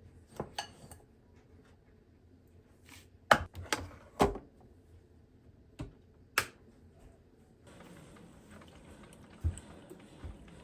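Kitchen handling sounds: a few sharp clinks and knocks of dishes and utensils, the loudest cluster about three to four seconds in, then a steady rush of water from a tap starting near the end.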